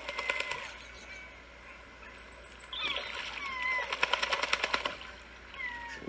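Birds calling: short, falling whistled notes, several of them, over bursts of a fast clicking rattle in roughly the first second and again from about three to five seconds in.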